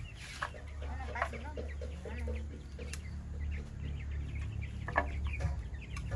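Chickens clucking, with many short calls overlapping, over a steady low rumble.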